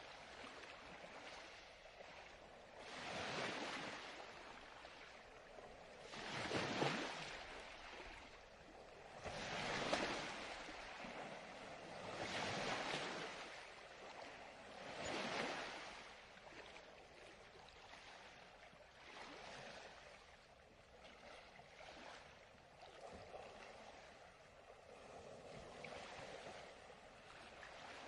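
Ocean surf: waves washing in and drawing back, rising and falling about every three seconds. The surges are stronger in the first half and gentler after.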